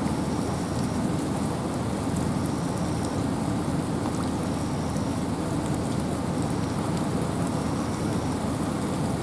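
Steady rain and wind in a forest: an even rushing hiss of rain with a strong low rumble of wind. A faint short high tone recurs about every two seconds.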